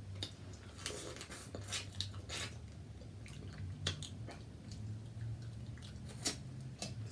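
Close-miked eating sounds: wet, squishy mouth and hand noises with scattered sharp clicks from seafood shells being handled, over a low steady hum.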